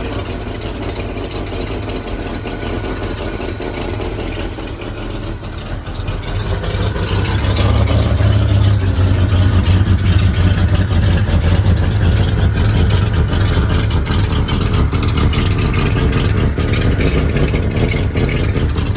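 1970 Mercury Cougar Eliminator's freshly rebuilt 428 Cobra Jet V8 idling steadily in its first run after restoration, getting louder about seven seconds in.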